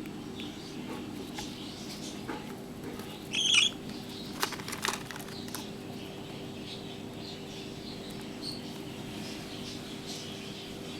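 Budgerigar chicks giving faint scattered chirps, with one louder short call about three and a half seconds in and a few sharp clicks just after, over a steady low hum.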